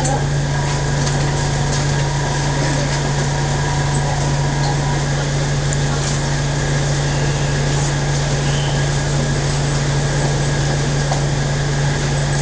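Steady low hum and a faint, unchanging high tone of a local electric train, heard from inside the passenger car.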